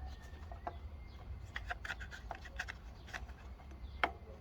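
Light clicks and rubbing of plastic and rubber parts being handled as the breather pipe is pushed onto its fitting on a Honda Izy mower engine, with a sharper click about four seconds in.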